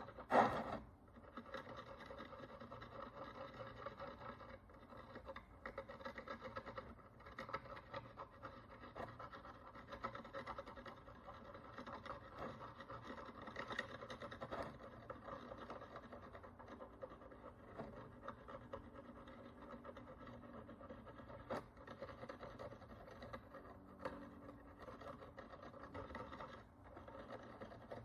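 Fine scratching and scraping of a tool working the dirt and oxidation crust off an ancient Roman bronze coin, with a short loud knock about half a second in.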